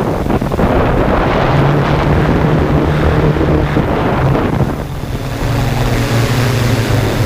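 Quadcopter drone's propellers and motors humming steadily, with heavy wind noise on the microphone; the sound dips briefly about five seconds in.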